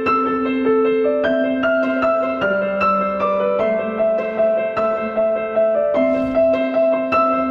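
Background piano music: a gentle, steady melody of struck notes over held bass notes.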